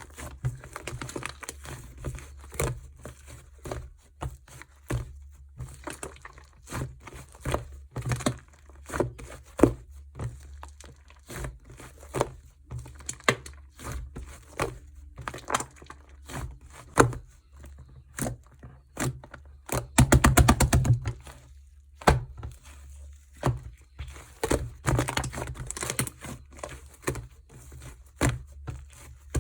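Slime being pressed and squished by hand, making irregular sticky clicks, crackles and pops, with a dense, loud run of crackling about twenty seconds in.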